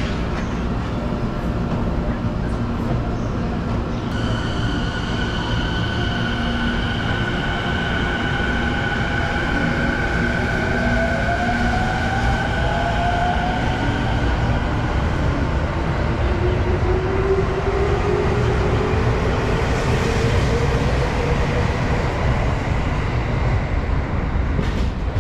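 JR Musashino Line electric commuter train pulling out of the platform and accelerating away, its wheels rumbling on the rails with a steady hum and a whine that rises in pitch twice as it gathers speed.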